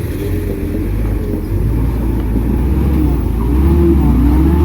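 Heavy diesel engine of earthmoving machinery running under load, a deep rumble whose pitch rises and falls as it works, getting louder near the end.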